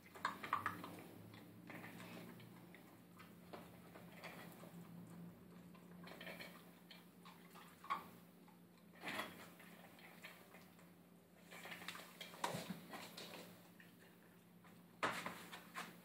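Puppy eating dry food from a bowl: faint, scattered clinks and clicks of food and muzzle against the bowl, with a few louder knocks about 8, 9, 12 and 15 seconds in.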